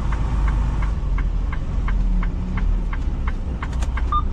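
Semi truck's diesel engine running with a steady low rumble, heard from the cab, with a light regular ticking about three times a second.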